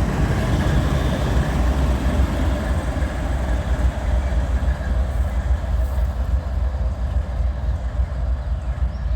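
Diesel switcher locomotive running light with no cars, its engine sound low and steady. The higher parts of the sound fade from about halfway through as it moves off.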